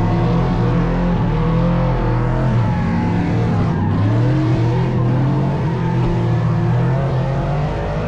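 A burnout truck's engine running loud and steady, its pitch wandering up and down as it revs.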